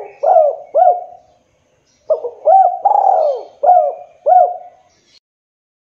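Spotted dove (tekukur) cooing. The end of one phrase is followed about two seconds in by a full phrase of about five coos.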